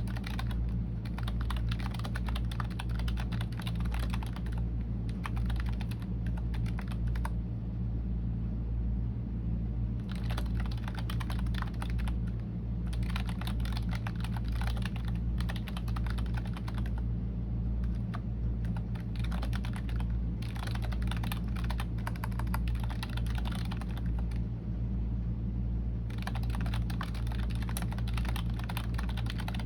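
Computer keyboard typing in runs of quick keystrokes, broken by pauses of a few seconds, over a steady low hum.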